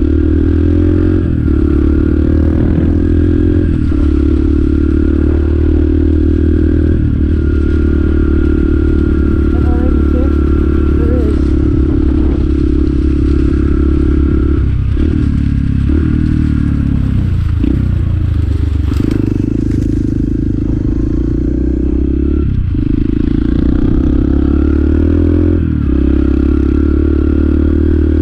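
Motorcycle engine running under way, heard from the rider's helmet, its note dipping briefly every few seconds. A little past the middle the revs fall away for a few seconds, then pick up again.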